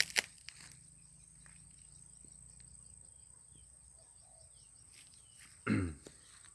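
Swiftlet calls being tested: faint, scattered high chirps over a steady high-pitched tone, with a couple of clicks at the start.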